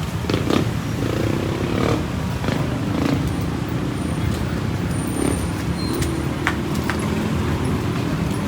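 Street traffic: motor vehicle engines running steadily, with scattered sharp clicks and knocks.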